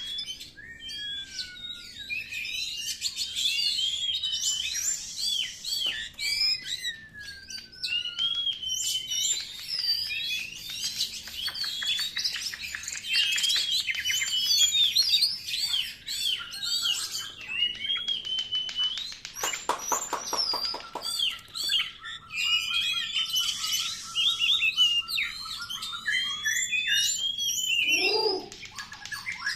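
Oriental magpie-robin (kacer) singing continuously: a rapid, varied stream of whistles and chattering phrases, with a short buzzy rattle about two-thirds of the way through.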